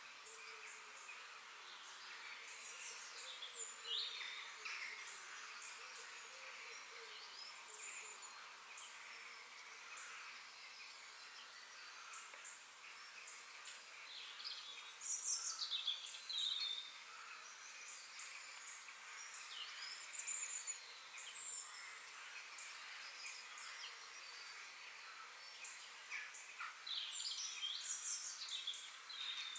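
Bird chirps and whistles over a steady, faint hiss, with louder flurries of calls about halfway through and again near the end.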